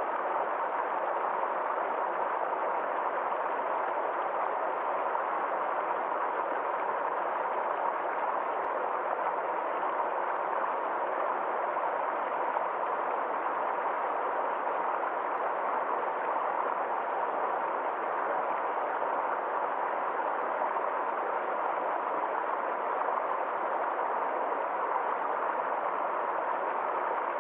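Small forest stream flowing over rocks: a steady, even rush of water with no change.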